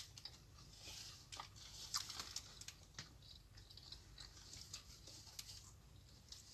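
Faint eating sounds of people chewing sandwiches, with scattered small clicks and soft rustles of sandwich paper.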